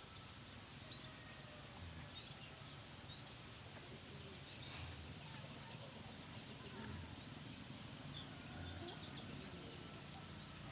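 Faint outdoor ambience with scattered short, high bird chirps over a low steady background.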